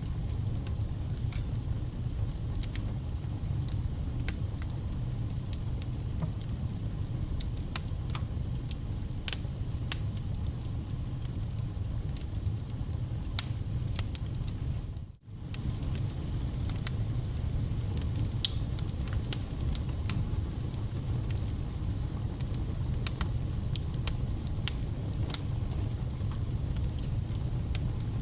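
Wood campfire burning, a steady low rumble of flame with frequent sharp crackles and pops from the firewood. The sound drops out for a split second about halfway through, then carries on.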